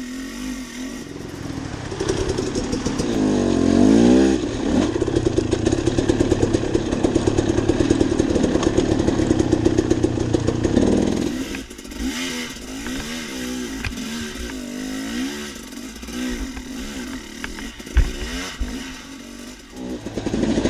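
Dirt bike engine running under load on a trail. The revs climb over the first few seconds and hold high and steady, then drop about eleven seconds in and rise and fall with the throttle. A single sharp knock comes near the end.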